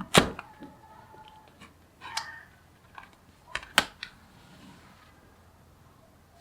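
Small magnetic balls clicking as they snap together: a handful of sharp clicks, the loudest just after the start and others about two and nearly four seconds in.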